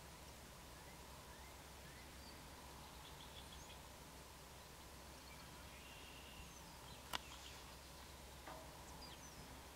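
Faint, scattered high bird chirps and short down-slurred calls over a steady low background rumble, with one sharp click about seven seconds in.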